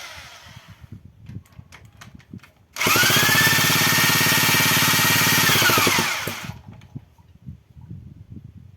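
Electric power tool spinning up with a rising whine, running steadily for about three and a half seconds, then winding down. Light clicks of handling before it.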